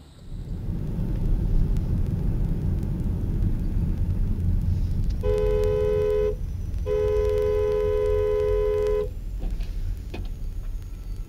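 Steady road and engine rumble of a moving car, with a two-note car horn sounding twice: a short honk, then a longer one of about two seconds.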